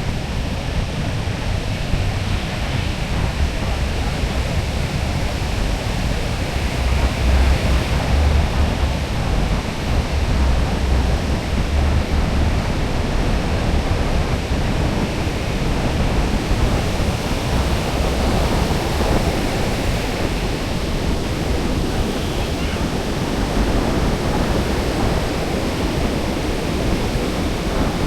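Ocean surf washing steadily onto the beach, with wind buffeting the microphone in low rumbling gusts.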